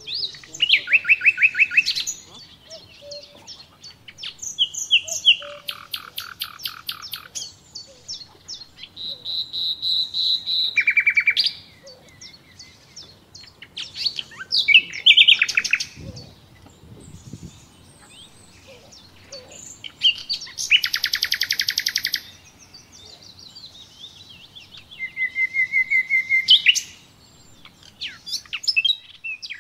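A songbird singing in loud phrases of rapidly repeated notes and trills, each a second or two long, with pauses of a few seconds between them.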